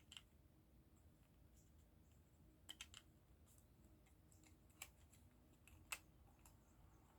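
Near silence with a few faint clicks of small plastic model parts being handled and pressed together: a cluster of three clicks about three seconds in, then single clicks near five and six seconds.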